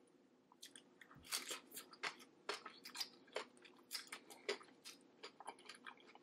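Close-miked eating sounds from someone eating seafood boil: a run of bites, chewing and sharp crunching clicks, starting about half a second in and densest through the middle few seconds.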